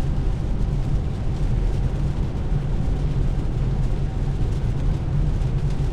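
Steady cabin noise of a 2024 Tesla Model 3 driving in heavy rain: a constant low road rumble under an even hiss of rain and wet tyres.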